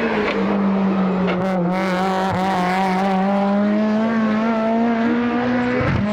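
A time attack race car's engine at high revs, its pitch climbing steadily as the car accelerates, with an upshift near the end that drops the pitch before it starts rising again.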